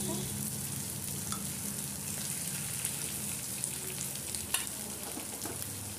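Paneer cubes sizzling and crackling in hot oil in a kadai, with a metal spoon scraping and clinking against the pan as they are stirred and scooped out. One sharper clink comes late on.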